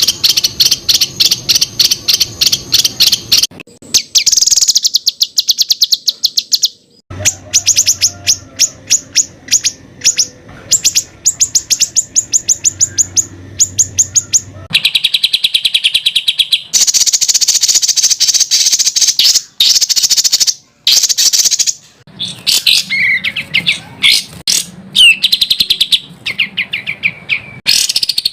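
Songbird 'tembakan' song from a masteran recording: fast, high-pitched trains of sharp repeated notes, many a second. The segments start and stop abruptly, and a few sweeping, warbled notes come in the last third.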